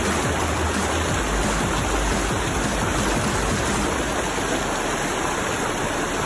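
Waterfall rushing steadily: an even, unbroken noise of falling water that cuts off suddenly at the end.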